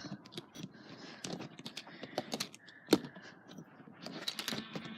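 Irregular small clicks and taps of plastic toys being handled, with one sharper knock about three seconds in.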